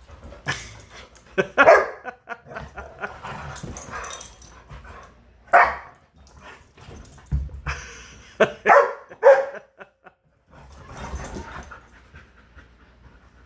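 Dogs playing rough, barking several times in short bursts, with knocks and scuffling between the barks.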